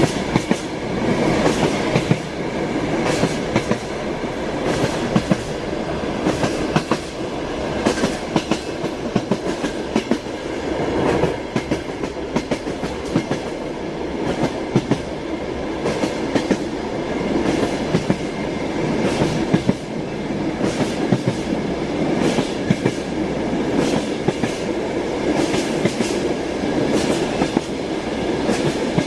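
Train wheels clattering over rail joints: a steady rolling rumble with repeated clickety-clack knocks every second or so.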